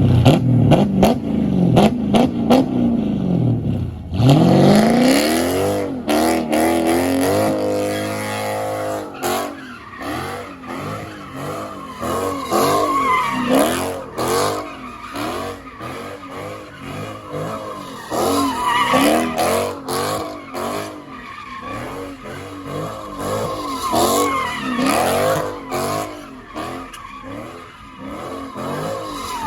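Car engine revving hard, then revved up and down again and again, with the tyres squealing and skidding, as in a burnout or donuts.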